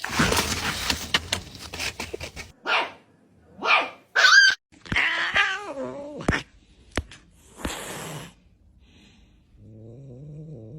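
A pet dog vocalising in short, falling yips and growly calls among scuffling and a few sharp clicks. Near the end a steady low drone begins.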